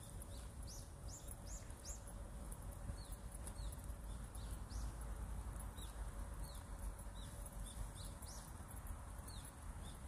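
Small birds chirping: many short, quick, high chirps at an irregular pace throughout, over a steady low rumble.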